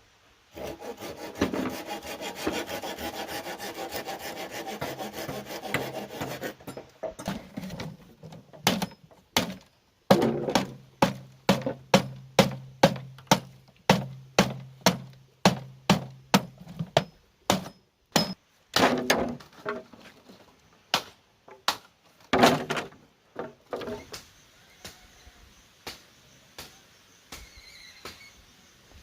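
Bamboo being hand-sawn with quick rasping strokes for several seconds, then cut with a steady run of sharp chopping blows, about two a second, and a few more single blows later.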